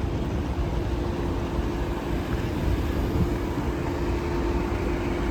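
Bus engine running, a steady low rumble with a constant hum.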